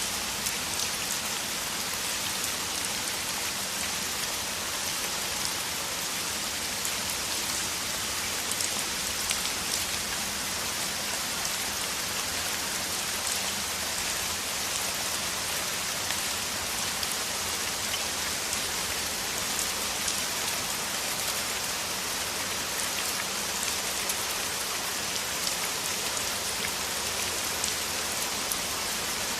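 Heavy rain falling steadily: a dense, even hiss of a downpour with many fine drop ticks through it.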